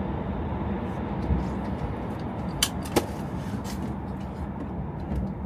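Steady low rumble of a camper van driving, heard from inside the cab. Two sharp clicks about a third of a second apart come a little past the middle.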